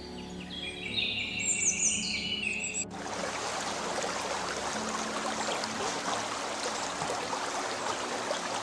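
Layered jungle ambience: birds chirping and calling for about three seconds, then an abrupt cut to a steady dense hiss, over a low sustained music drone.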